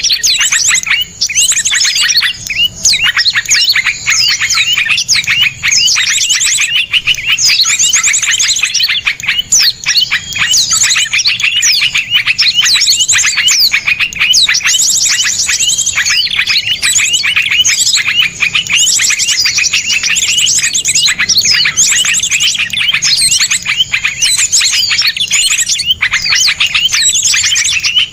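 Dense, unbroken chorus of small songbirds: rapid, harsh chirps and fast trills packed close together with hardly a gap, the sharp 'tembakan' calls of a masteran recording made to teach caged songbirds.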